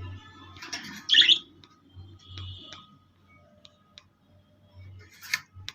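Pet birds chirping and calling, with a loud, sharp squawk about a second in and another near the end.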